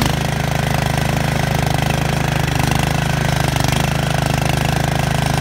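Yard Machines MTD lawn mower engine running steadily with a fast, even beat of firing pulses, exhausting through a muffler that has been cut, re-welded and turned to point upward.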